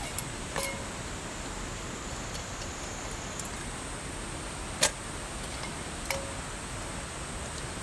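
A few sharp ticks or taps, some with a brief ringing tone after them, over a steady hiss with a faint high-pitched whine.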